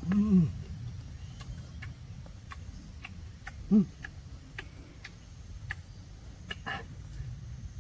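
A person eating, with scattered small mouth clicks and smacks from chewing. Two brief hummed 'mm' sounds, one at the very start and one about four seconds in.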